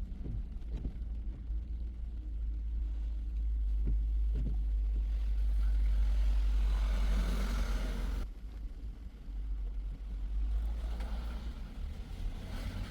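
Car driving on a wet road in the rain: a steady low rumble of road noise. A hiss of tyres on wet pavement swells from about five seconds in and cuts off suddenly near eight seconds, then swells again near the end, with a few light knocks in the first half.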